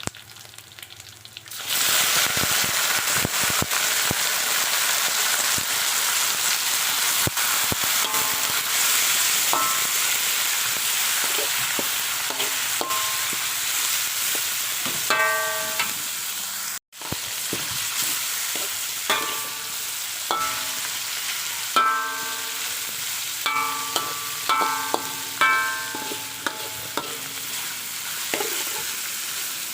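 Oil sizzling steadily as meat is fried and stirred in a pan, with short ringing clinks of a utensil against the pan from about eight seconds in. The sizzle breaks off for an instant about seventeen seconds in.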